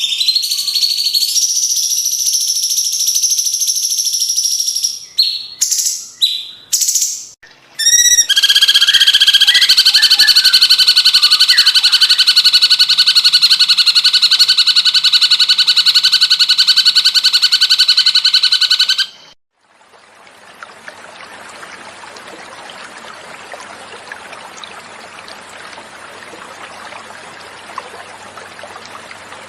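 Cucak cungkok birdsong: high whistled notes and a few short calls, then a long, fast trill held for about ten seconds that cuts off suddenly. About a second later, steady flowing water begins, the natural pause between song passages.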